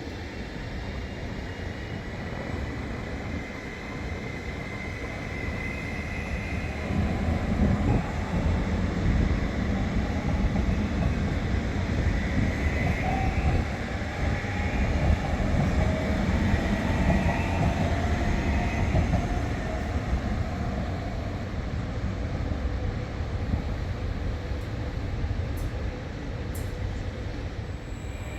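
Regional train moving through a station: a rumble of wheels on the rails that grows about seven seconds in, with a faint whine that wavers in pitch over it, easing off toward the end.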